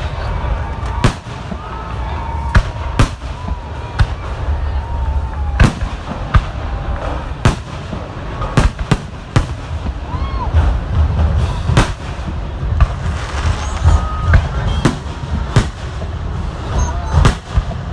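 Fireworks exploding: many sharp bangs at irregular intervals, several a second at times, over a continuous low rumble.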